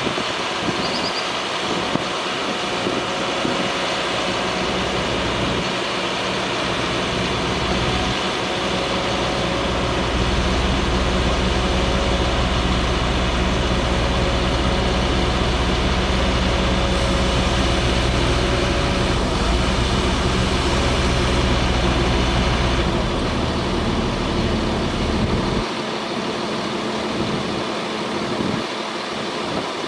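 Bucket truck's engine running steadily, with a deeper, louder drone coming in about eight seconds in and dropping away again about twenty-five seconds in.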